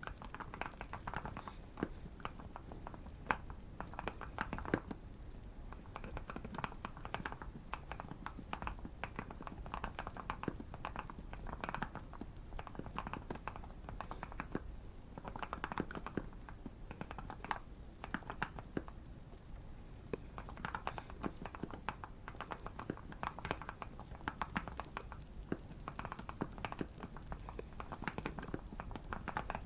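Typing on a modded Keychron Q1 mechanical keyboard: rapid keystroke clicks in bursts of a few seconds, broken by short pauses, over faint fireplace crackling.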